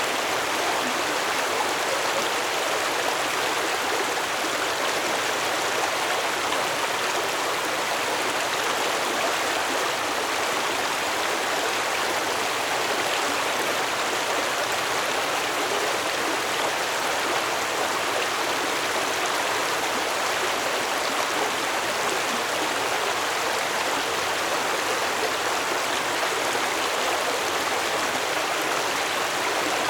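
Water flowing steadily in a stream, an even, unbroken rush with no change in level.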